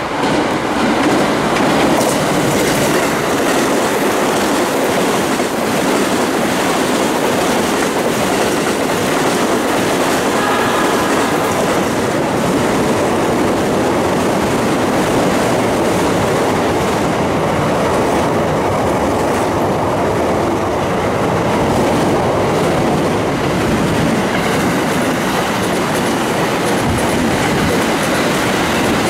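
Electric commuter trains, JR E235- and E217-series sets among them, running past at close range: a loud, steady noise of wheels on rails with no let-up, and a brief whine about ten seconds in.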